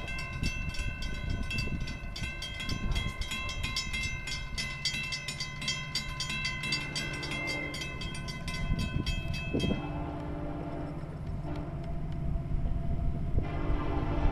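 Grade-crossing bells ringing in rapid, even strokes over the low rumble of Florida East Coast Railway GE ES44C4 diesel locomotives; the bells fall silent about ten seconds in. The locomotive horn sounds in blasts from about seven seconds in, and again near the end.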